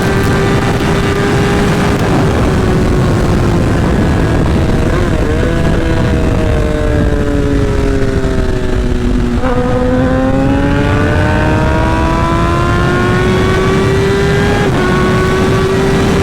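Sport motorcycle with a short aftermarket SC Project exhaust at highway speed, heard from the rider's helmet camera over heavy wind rush. The engine note sinks slowly as the bike eases off for about nine seconds. After a quick step in pitch it climbs steadily as the bike accelerates again, with a brief shift-like blip near the end.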